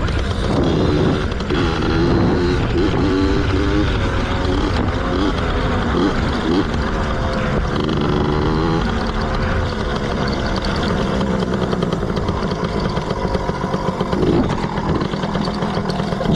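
Yamaha PW80's small two-stroke single-cylinder engine running while being ridden, its pitch rising and falling over and over with the throttle.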